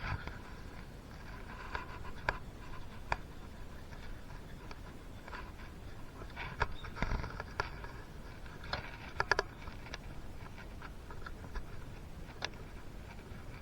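Scattered light clicks, taps and short scrapes of hand work on two-stroke engine parts during piston fitting. The loudest is a quick run of two or three clicks about nine seconds in.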